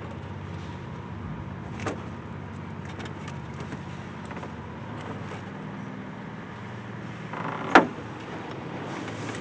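A steady engine hum in the background, with a few light clicks of parts being handled and one sharp knock about eight seconds in.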